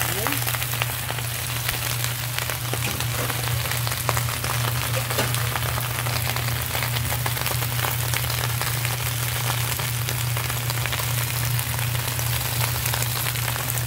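Wild spinach leaves (lamb's quarters and amaranth) frying in hot oil in a pan, with a steady sizzle and many small crackles, over a steady low hum.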